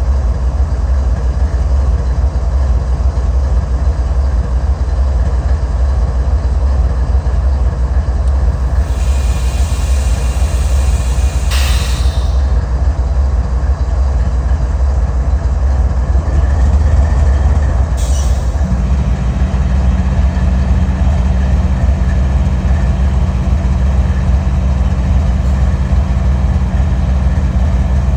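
Canadian Pacific locomotive 8849, a GE ES44AC diesel, running with a loud, steady deep rumble. A hissing burst comes about nine seconds in and stops sharply around twelve seconds, with a click there and another near eighteen seconds; a steady hum joins the rumble about two-thirds of the way through.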